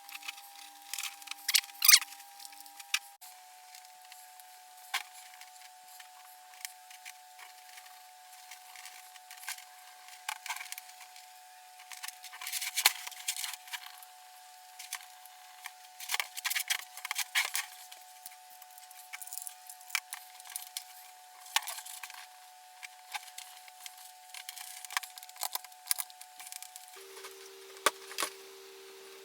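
Scratchy rubbing and scrubbing in irregular bursts as sticky grime is cleaned off a hair dryer's casing.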